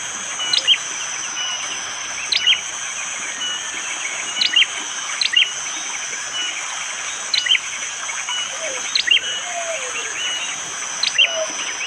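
Prenjak jali prinia giving its hard, sharp 'shot' call: short, sharp notes repeated about every one to two seconds. A steady high insect drone runs underneath.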